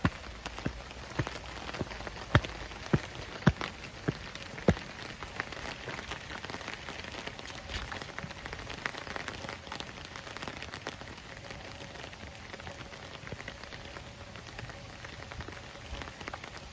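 Rain falling steadily, with sharp taps of single drops standing out, several of them in the first five seconds.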